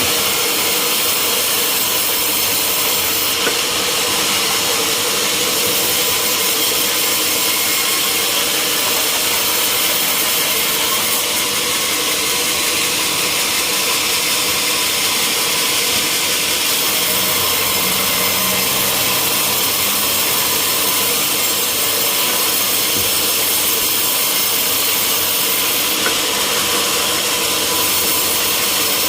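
Sawmill saw cutting steadily through a teak log: an even, unbroken cutting noise with a faint steady hum underneath.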